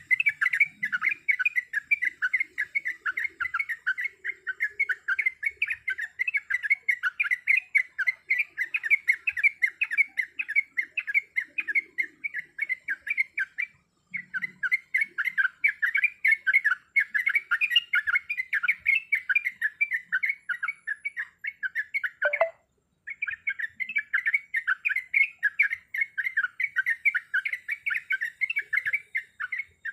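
Sooty-headed bulbul (trucuk) giving a fast, rolling run of short chirping notes, packed several to a second and repeated without pause. The run breaks off briefly about 14 seconds in, and again about 22 seconds in, just after one falling note.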